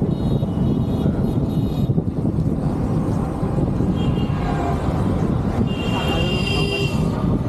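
Steady rumble of wind and motorcycle road noise while riding. High, steady tones sound twice over it: briefly at the start, and again from about four seconds in to near the end.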